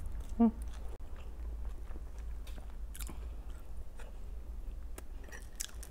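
A person chewing and biting food, with many small crunches and wet mouth clicks. A short hum sounds about half a second in.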